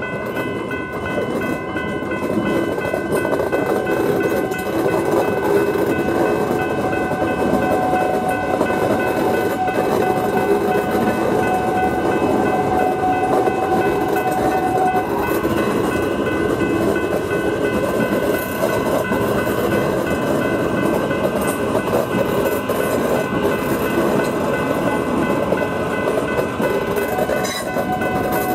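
A High Capacity Metro Train, an electric multiple unit, running slowly past over a level crossing with a steady rumble of wheels on rails. The crossing's warning bells ring throughout as several steady high tones, and a steady hum from the train stops about halfway through and returns near the end.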